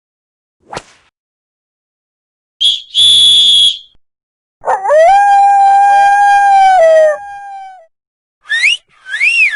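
A run of separate short sound effects: a click, a high steady beep, a long held pitched call that steps down in pitch near its end, then two quick rising squeaks.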